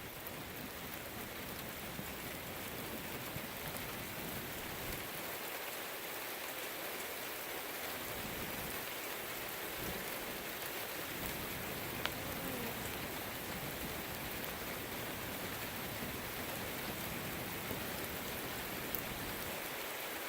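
Steady rain falling, with a sharp tick about twelve seconds in.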